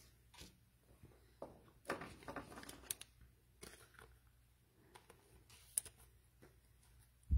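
Trading cards and packs being handled on a table: soft scattered rustles, scrapes and light clicks, with one dull thump near the end.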